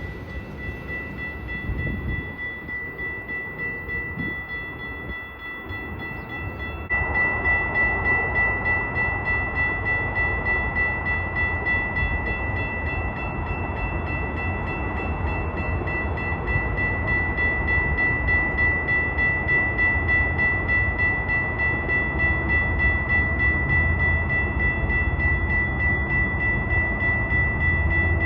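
A bell ringing steadily, about twice a second, over the low rumble of a train; the ringing gets louder about seven seconds in.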